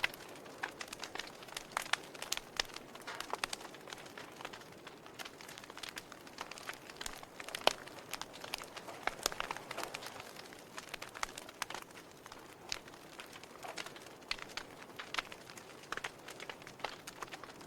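Wood fire burning in a fireplace: logs crackling with irregular sharp pops and snaps over a soft hiss, a few pops louder than the rest.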